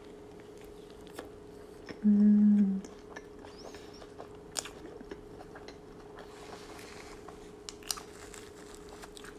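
Close-miked chewing of a mouthful of Big Mac, with soft wet mouth clicks and light crunching. About two seconds in comes a short, loud, steady hummed "mm" of enjoyment, under a second long.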